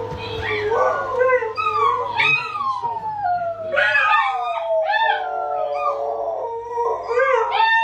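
Dog howling: a run of drawn-out howls, each starting high and sliding down in pitch, one after another.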